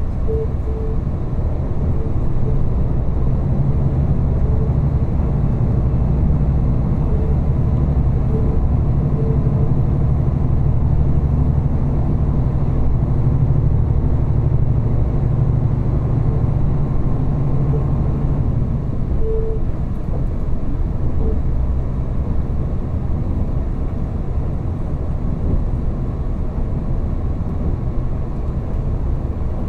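Diesel railcar heard from inside the passenger cabin: a steady rumble of wheels on rail with the engine's low drone under power, the drone fading about two-thirds of the way through.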